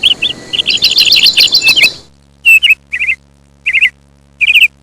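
Small bird chirping in quick runs of short, high chirps. About two seconds in, the background hiss cuts out and the chirps come in brief separate clusters.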